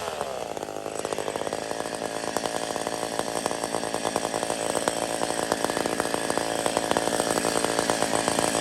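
Two-stroke chainsaw running steadily at high speed, growing gradually louder.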